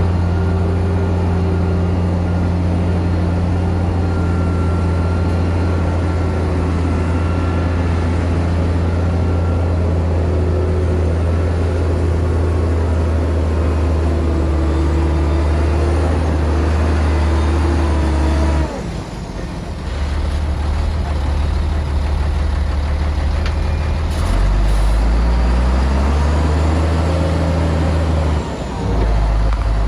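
Heavy diesel engines of earth-moving machinery running steadily. The engine note drops abruptly about two-thirds of the way in, then comes back and changes pitch several times near the end.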